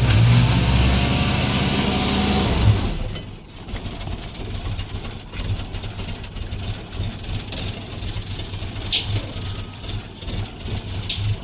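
Car engine revving for about three seconds, then dropping back to a quieter steady run, with a few short clicks near the end.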